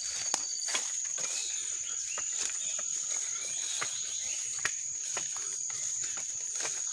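Forest insects droning steadily at a high pitch, with scattered short bird chirps and a few sharp clicks.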